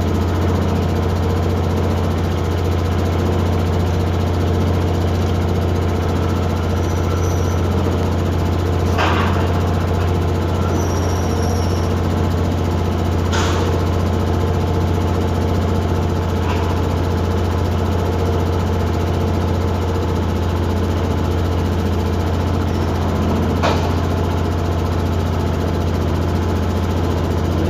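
Boat engine running steadily at one constant speed, a low even drone. Three or four short sharp clicks sound over it, spread through the stretch.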